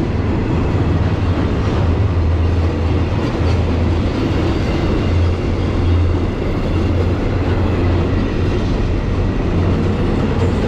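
Diesel train running, a steady low engine drone over a continuous rumble.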